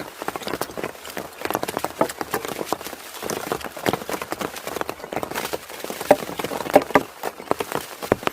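Rain dripping and pattering onto a hard surface: a dense, irregular run of sharp taps over a steady light hiss.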